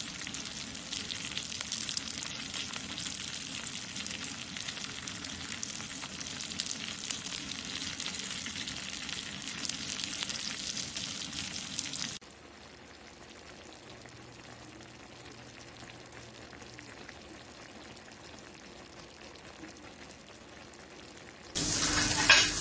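Small whole fish frying in oil in a pan: a steady, dense crackling sizzle. About twelve seconds in, it changes abruptly to a quieter, even sizzle. Near the end it jumps to a louder sizzle of bacon strips frying on a griddle.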